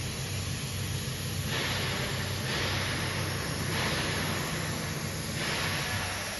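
AccTek AKM1325C CNC router running with a steady low hum. From about a second and a half in come hissing stretches, each about a second long with short breaks between them.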